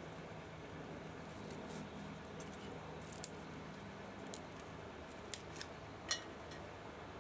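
A few short, sharp clicks, three of them spread over the last half, the last the loudest, over a faint steady hum.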